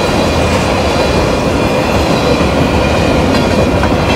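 Freight train of tank cars and covered hoppers rolling past close by: a steady rumble and clatter of steel wheels on the rails, with a faint high steady whine over it.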